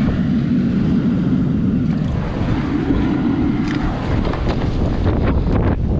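Strong wind buffeting the microphone over the wash of ocean surf, with a run of short crackles near the end.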